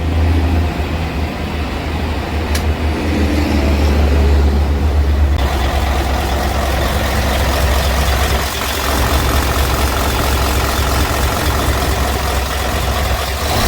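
Isuzu dump truck's 10PE1 V10 diesel engine running steadily with a deep low rumble; about five seconds in, a harsher, noisier top end joins it.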